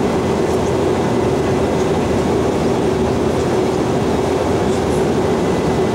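Steady cabin noise of an Airbus A320-232 taxiing after landing: its IAE V2500 engines at idle, with a steady hum and a continuous rumble of the rolling gear.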